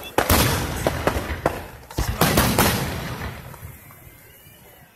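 Aerial fireworks bursting: a rapid run of sharp bangs and crackles in the first half, loudest at the start and about two seconds in, each followed by a rumbling echo that fades away towards the end.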